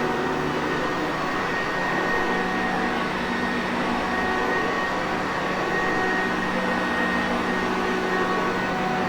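Sanitaire Perfect vacuum cleaner running steadily: a rush of air with a constant motor hum and a thin high whine, unchanging throughout.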